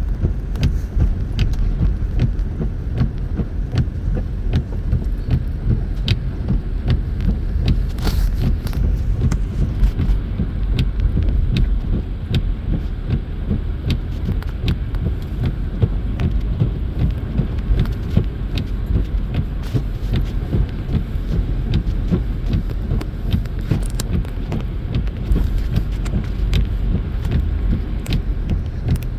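Car driving, heard from inside the cabin: a steady low rumble of road and engine noise, with scattered faint ticks.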